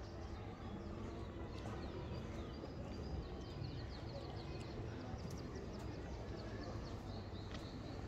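Small birds chirping, with a quick run of short falling notes about three to four seconds in, over a steady low outdoor rumble and a few faint clicks.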